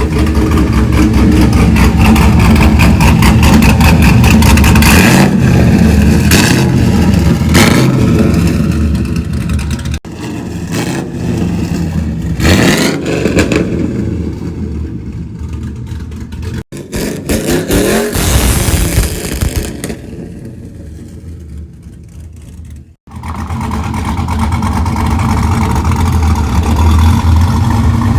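Pickup truck engine running through a newly welded, louder exhaust, heard in several cut-together clips: steady loud running, quieter stretches, and a couple of rises in pitch as it is revved or pulls away.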